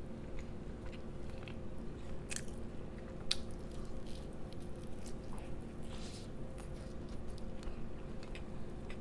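Close-miked chewing and biting of a fried chicken sandwich, with wet mouth sounds and occasional crisp crunches. A steady low electrical hum runs underneath.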